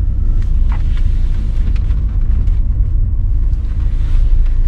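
Volvo V60 D4 diesel estate driving along, a steady low road and engine rumble.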